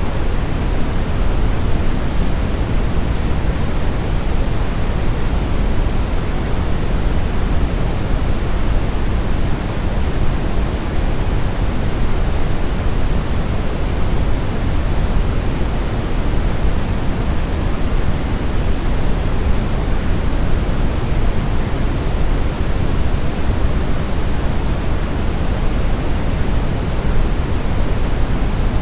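Steady synthetic brown noise: an even, unchanging hiss-rumble with most of its weight in the low end, falling away toward the highs.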